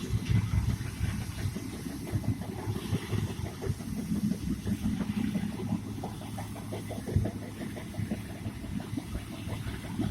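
Farm machinery engine running, a low uneven rumble.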